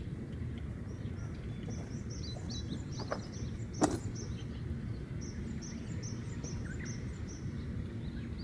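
A songbird singing two runs of rapid, repeated high chirps over a steady low outdoor rumble. A single sharp knock comes about four seconds in.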